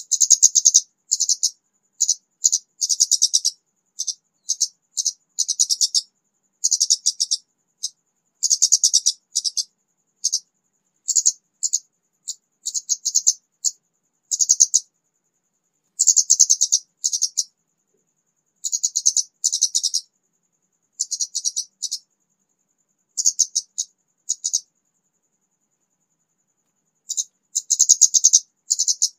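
Orange-headed thrush singing in short, rapid, high-pitched phrases with brief pauses between them, and one longer pause near the end. It is a newly kept young bird just beginning to sing.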